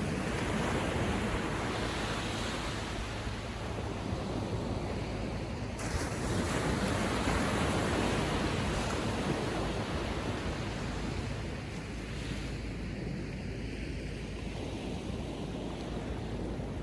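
Gentle ocean surf: small waves breaking and washing up the shore, swelling twice and then easing off near the end.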